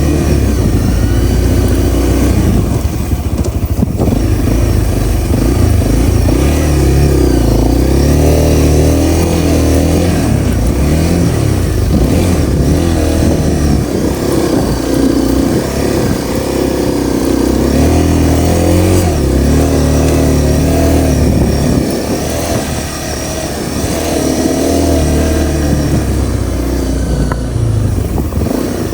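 Honda CRF250L's single-cylinder engine running under way, its pitch rising and falling again and again as the throttle opens and closes, easing off for a couple of seconds past the middle.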